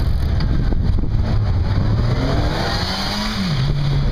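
A motor vehicle engine accelerating in city traffic: its pitch climbs for about a second, then drops suddenly near the end, over a steady rumble of traffic noise.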